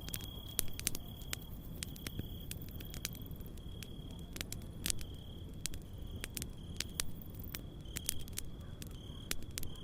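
Campfire crackling with irregular sharp pops, over crickets chirping in repeated short trills.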